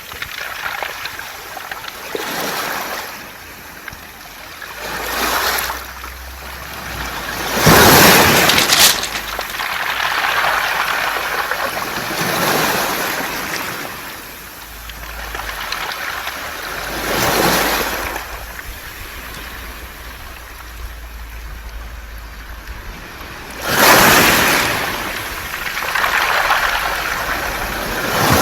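Waves washing in and out on a beach of smooth round pebbles, the stones rattling and hissing as the water drains back. The wash swells and fades every few seconds, with the biggest surges about 8 seconds in and near 24 seconds.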